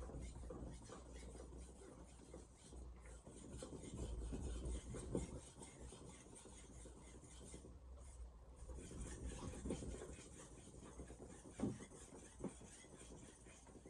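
Faint, irregular rubbing of a VG10 stainless steel santoku blade on a Shapton Glass 2000-grit sharpening stone, with a few light knocks.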